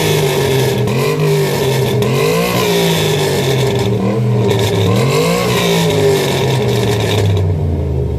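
Car engine revved through a loud modified exhaust, its pitch rising and falling in three or four repeated revs.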